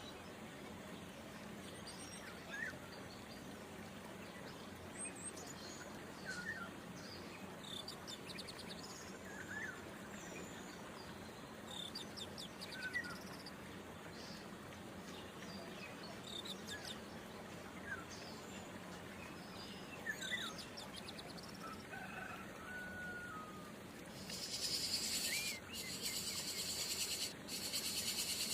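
Scattered short bird chirps over a faint insect background. About 24 seconds in, a loud, high, shrill insect chorus sets in, broken by a few brief gaps.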